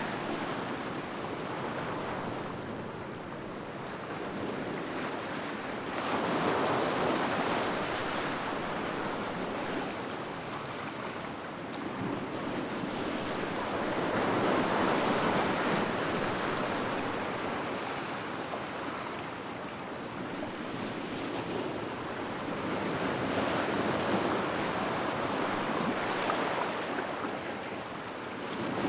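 Sea waves breaking and washing on the shore, a steady rush of surf that swells and ebbs in slow surges about every eight to nine seconds.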